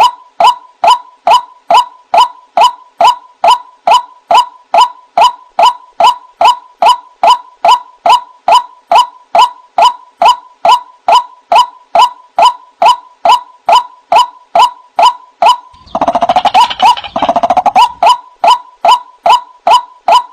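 White-breasted waterhen (ruak-ruak) calling: a steady, evenly spaced run of short 'wak' notes, about two and a half a second, played as a bird-trap lure call. About 16 seconds in, a louder, harsher stretch of 'kruak' calling rises over the run for about two seconds.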